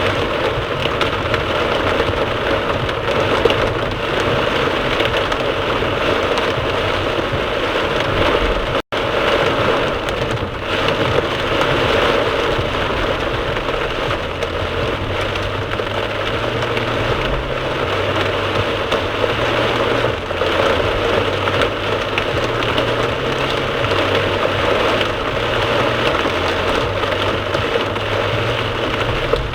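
Heavy downpour drumming steadily on a moving car, heard from the dashboard camera inside, with a low road and engine rumble beneath. The sound cuts out for an instant about nine seconds in.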